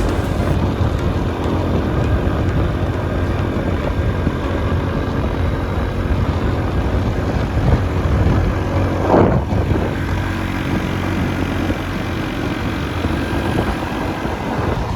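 Motorbike engine running steadily, a low hum under wind-like noise, with a brief louder swell about nine seconds in.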